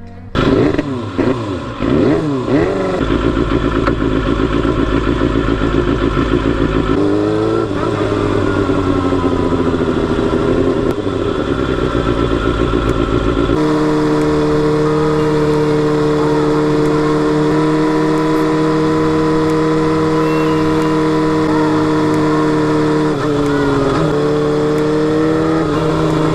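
Kawasaki Balius 250's inline-four engine and exhaust while riding. It revs up and down in the first few seconds, then holds steady revs. The note jumps abruptly twice, and near the end it drops briefly and climbs back.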